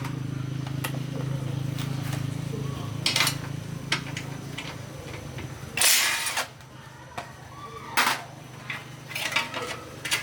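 A steady low machine hum that drops in level about six seconds in, with several short, sharp, hissing bursts scattered through it.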